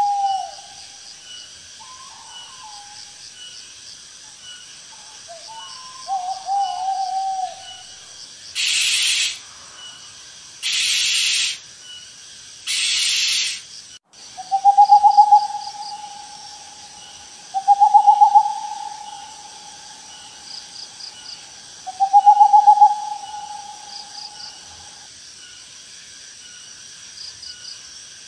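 Owl calling: a few short wavering calls, then three harsh hissing screeches of about a second each, then three long, level hoots several seconds apart. Faint chirping insects keep up a steady trill underneath.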